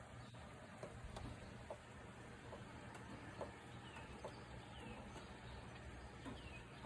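Light rain falling on grass: a faint steady hiss with scattered drop ticks. A bird gives several short, falling chirps in the second half.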